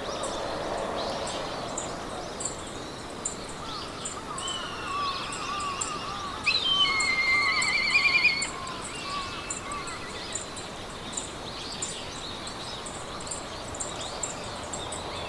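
Meadow ambience: songbirds singing, loudest in a trilled song a little past halfway, over a steady run of high insect chirps and a soft hiss of wind in grass.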